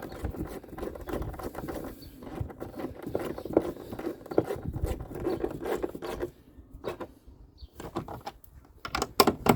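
Hands handling and refitting a car's plastic rear light unit: irregular rustling, scraping and small clicks, then a few sharp clicks near the end as the parts are seated.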